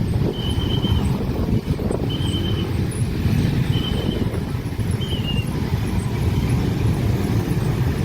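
Train passing at speed: a steady, loud low rumble of wheels on rail. A short high beep repeats about every second and a half over it.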